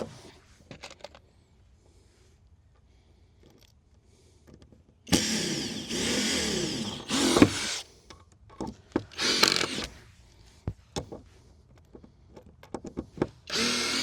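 Power drill running in bursts: one long burst of about two seconds with its pitch shifting as it works, then two short bursts, with scattered knocks and clicks between them.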